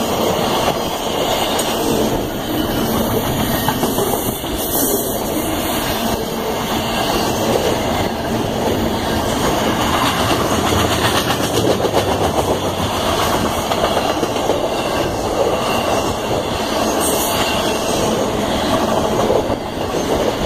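CSX intermodal freight train's double-stack container well cars rolling past at track side: steel wheels running on the rails, a steady loud rolling noise that carries on without a break.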